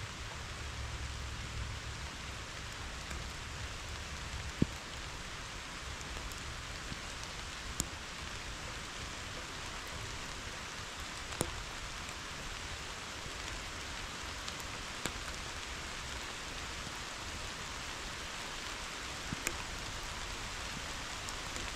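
Steady summer rain falling on meadow grass and foliage, an even hiss. A few sharp ticks stand out every few seconds, the loudest just before five seconds in.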